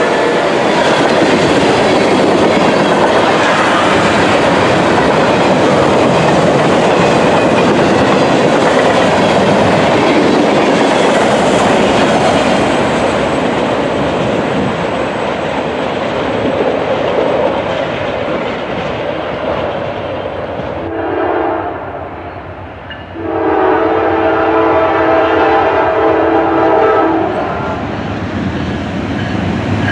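Freight cars rolling past with a steady clickety-clack that fades as the end of the train goes by. Then the horn of an approaching Norfolk Southern diesel locomotive sounds a short blast, followed about two seconds later by a longer blast of several seconds.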